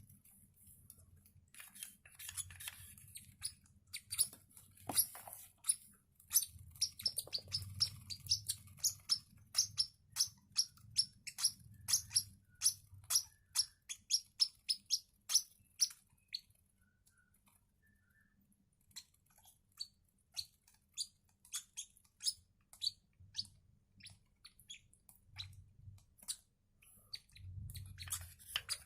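Lovebird chicks a few days old cheeping with high, short peeps, several a second, the begging calls of hand-fed nestlings. The cheeping stops for a few seconds about halfway through, then resumes more sparsely.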